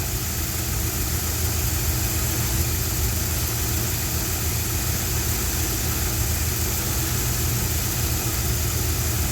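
A 1973 Dodge D100 pickup's engine idling steadily.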